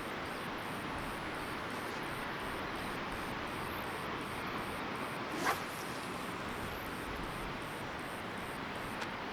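Steady wash of surf on an open beach, with one short, sharp yelp-like call about five and a half seconds in.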